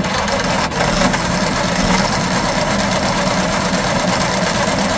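Race car's flathead engine running loud and steady with the throttle held wide open.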